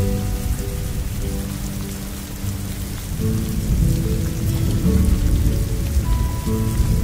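A rain-and-thunder ambience track: steady rain, with low thunder swelling about halfway through. Soft held low tones come and go over it.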